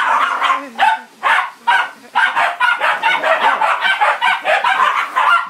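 Dogs barking and yapping, a few separate barks at first, then quick runs of about four to five barks a second from about two seconds in.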